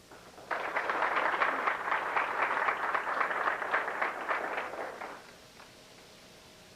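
Audience applause of many people clapping, starting about half a second in and dying away after about five seconds.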